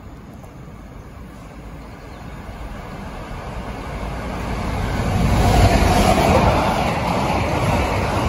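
Freight train passing through without stopping: the locomotive's noise grows from about two seconds in and is loudest as it goes by, then a long rake of covered box wagons keeps running past on the rails.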